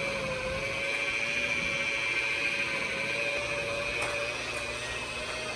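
Electric buffer running at a steady speed with a high whine, its pad cutting the oxidation off a faded plastic headlight lens with heavy-cut compound.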